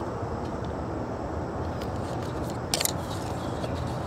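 Steady low hum of the 1997 Nissan Maxima's 3.0-litre V6 idling, with a couple of sharp clicks about three seconds in as a hand handles parts around the airbox and the mass air flow sensor connector.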